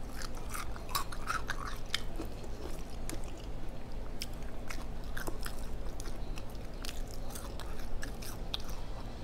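A person chewing fried flounder close to a clip-on microphone: wet mouth sounds with many small crunches and clicks all through, over a steady low hum.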